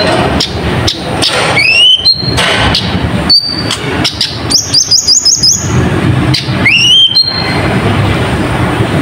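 Kolibri ninja, a sunbird, singing loudly in a rapid, dense song. Whistled notes rise and are each capped by a short higher note, and a fast run of about eight sharp high notes comes in the middle, all over a steady low rumble.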